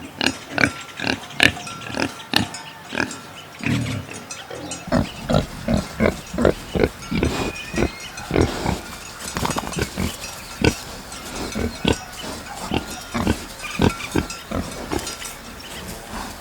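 Domestic pigs grunting: a long series of short, rapid grunts.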